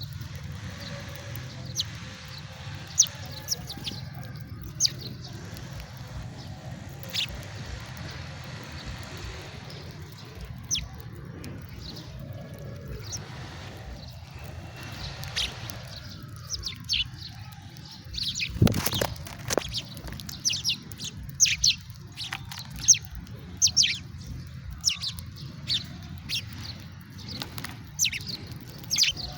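House sparrows chirping: scattered short chirps at first, then quick, dense chirping over the last third, over a steady low hum. A single loud thump sounds a little past halfway.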